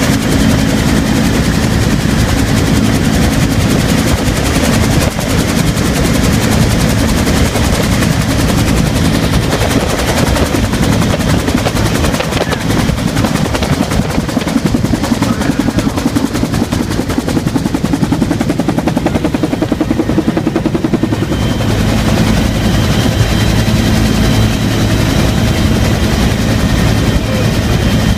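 Bell UH-1 'Huey' helicopter in flight, heard from on board: the two-bladed main rotor beating in a rapid, steady rhythm over the constant drone of its turbine engine.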